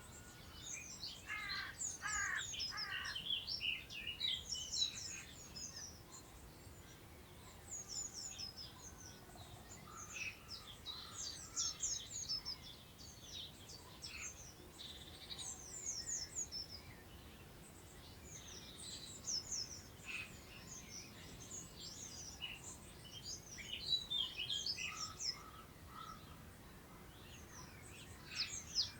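Several songbirds singing, quick phrases of high, rapidly falling notes coming in bursts throughout, over a faint low rush of wind in the meadow grass.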